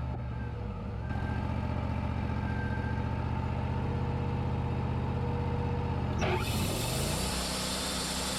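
Wood-Mizer LT40 band sawmill's engine running steadily; about six seconds in its speed briefly dips and then climbs back up.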